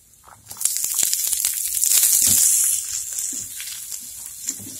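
Chopped onion going into a hot frying pan of browned calabresa sausage in its own rendered fat: a sudden loud sizzle about half a second in, strongest around two seconds, then settling to a lower steady frying sizzle. A silicone spatula stirs and scrapes the pan throughout.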